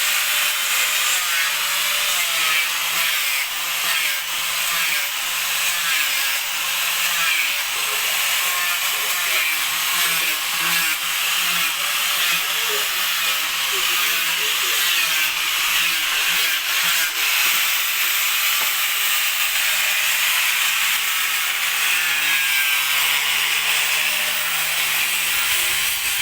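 A power tool running steadily against wood, giving a continuous grinding hiss.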